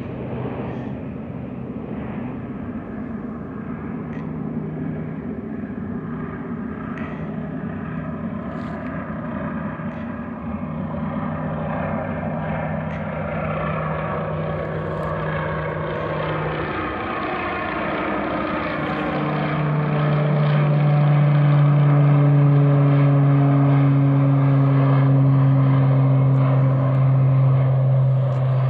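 Propeller-driven firefighting airplane flying past: a steady engine and propeller drone that grows louder about two-thirds of the way through, with some higher tones sliding down in pitch as it goes by.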